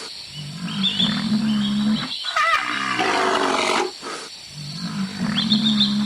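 A large wild animal roaring in long, drawn-out calls: a deep steady roar, then a higher wavering one, then a deep roar again, each lasting one to two seconds.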